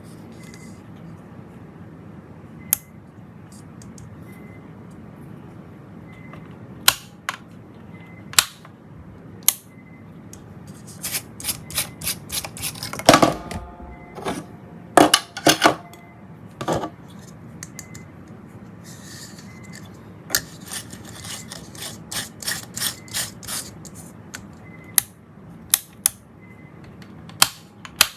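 Scattered sharp clicks and taps of small hard parts being handled, with a busier cluster of knocks and a brief ringing rattle about halfway through, over a steady low hum.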